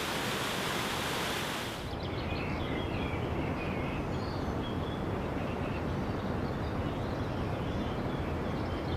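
Rushing water for about the first two seconds, cut off abruptly, followed by birds chirping over a steady outdoor background.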